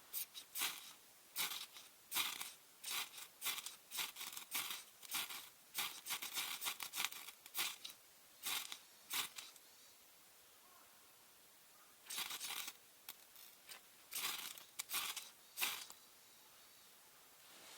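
A knife scraping along red pine wood in short rasping strokes, roughly one or two a second, with a pause of about two seconds in the middle, as when shaving kindling for a fire.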